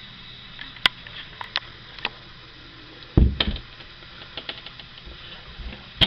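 Scattered light clicks and knocks, with one heavier thud about three seconds in.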